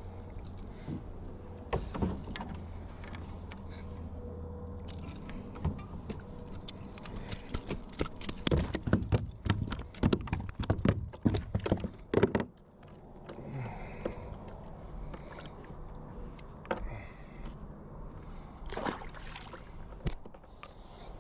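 Kayak on moving water, with water sloshing against the hull. A dense run of knocks and clatters starts about six seconds in and stops suddenly about twelve seconds in, and scattered single knocks follow.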